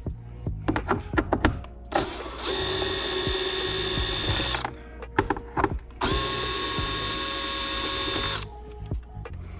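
Cordless drill-driver with a T30 Torx bit backing out the screws of the air filter housing cover: two steady motor whines of about two seconds each, with clicks of handling before, between and after.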